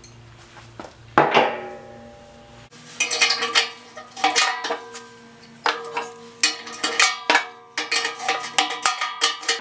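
Socket wrench working a bolt loose inside a Thunderbolt 1000 siren's metal horn: a knock about a second in, then a quick run of metallic clicks and clinks with the horn ringing behind them.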